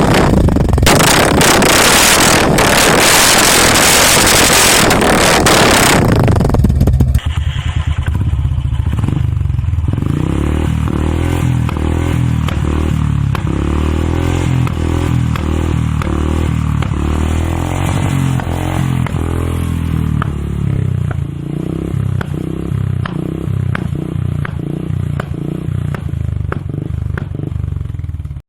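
Royal Enfield Bullet single-cylinder engine running through an aftermarket exhaust. It is loud across the whole range for the first six seconds, then drops to a low, steady idle with evenly spaced ticks.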